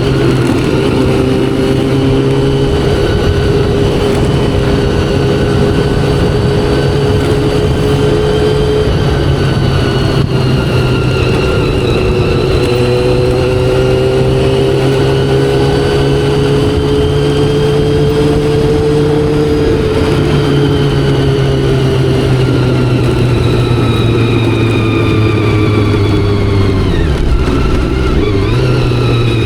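Honda CBR400RR's carbureted inline-four running under way, heard from the rider's position. The engine holds fairly steady revs that rise and fall gently. Near the end the pitch drops and then jumps back up, as at a gear change.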